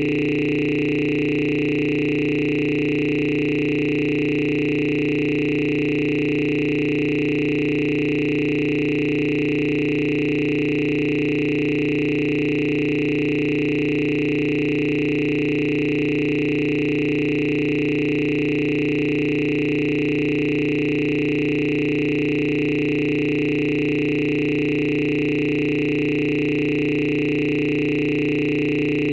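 Steady electronic drone: several low and high tones held together at a constant level, without any change.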